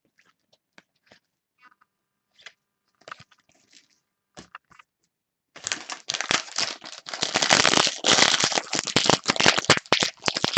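A few faint taps and ticks, then from about halfway a trading card pack's wrapper being torn open and crinkled, loud and continuous.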